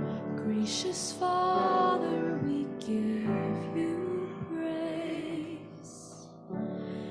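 A hymn sung by the congregation, slow and with long held notes, accompanied on keyboard.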